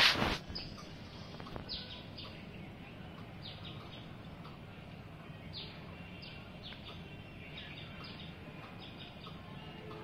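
Small birds chirping: short, high, falling chirps scattered throughout, over a steady low background rumble. A loud, brief rush of noise in the first half second.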